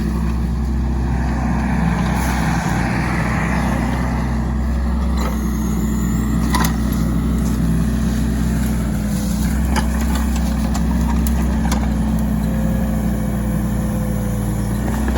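Mini excavator engine running steadily under load, with a few sharp knocks and clanks scattered through it while the machine tears out trees with a root rake.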